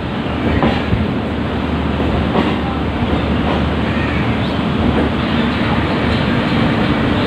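Train running on the tracks at the station: a steady rumble with a few sharp clacks scattered through it.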